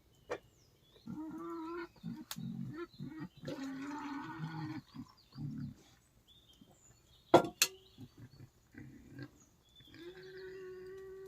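Young wild boar grunting and squealing in repeated bouts of a second or two. Two sharp cracks about seven seconds in are the loudest sounds.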